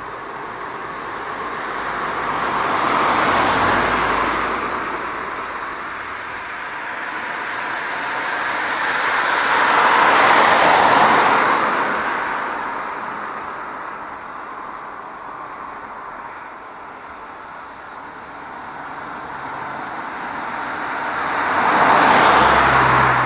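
Cars passing one at a time on a quiet road: three passes, each a swell of tyre and engine noise that rises as the car approaches and fades as it goes. The last pass carries a low engine hum.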